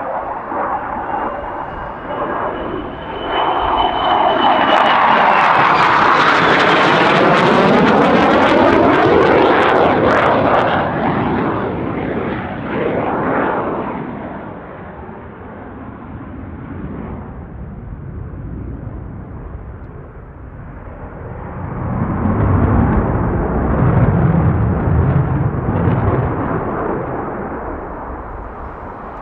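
Military jet aircraft flying past, rising to a loud peak and sweeping down in pitch as it goes by, then fading. A second, deeper jet rumble swells up about two-thirds of the way through and fades again.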